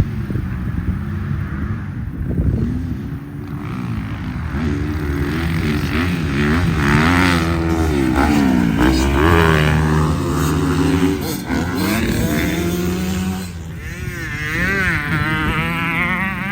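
Dirt bike engines revving up and down, pitch repeatedly climbing and dropping as the throttle is worked. At times more than one engine can be heard at once, and a higher, wavering engine note comes in near the end.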